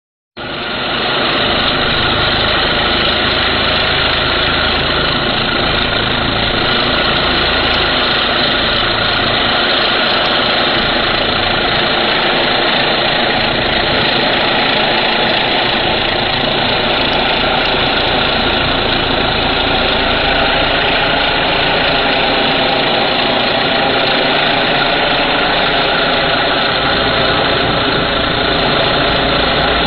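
Pressure washer's gasoline engine running steadily at a constant speed, with a continuous hiss over the engine hum. It starts abruptly right at the beginning.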